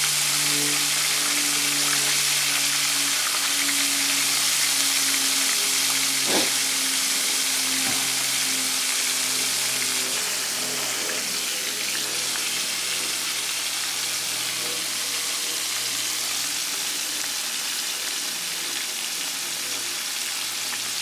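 Breaded pork steaks deep-frying in hot oil in a pan, a steady sizzle that eases a little after about ten seconds, with one light knock about six seconds in.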